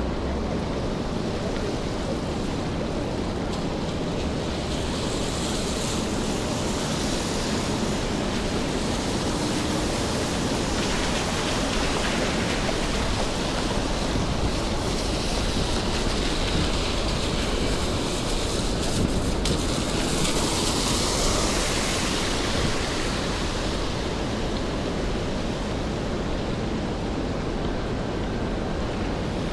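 Steady hiss of rainfall on wet city streets and pavement. From about five seconds in until a few seconds past the middle, a brighter, louder hiss swells up and then fades back.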